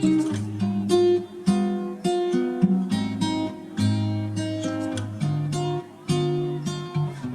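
Acoustic guitar music: chords strummed and plucked in an even rhythm, each one ringing out before the next.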